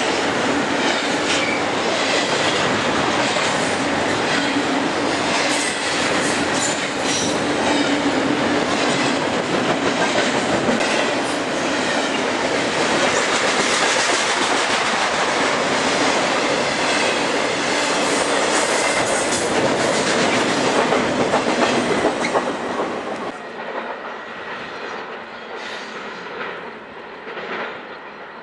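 Intermodal freight train passing close by at speed, its wheels and cars making a steady, loud rush of rail noise. About 23 seconds in, the sound drops away sharply as the train clears, leaving a fainter rumble.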